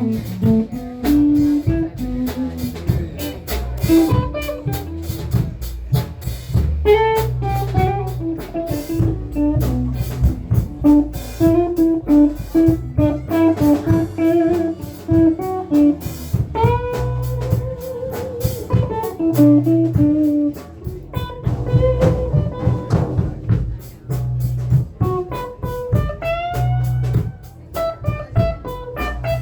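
Blues band playing an instrumental passage: a lead guitar plays melodic lines with bent notes over bass and a drum kit.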